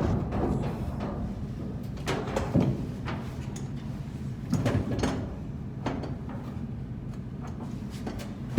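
A few irregular metal knocks and clanks of tools and parts being handled during a blower-wheel bearing replacement, over a steady low machinery hum.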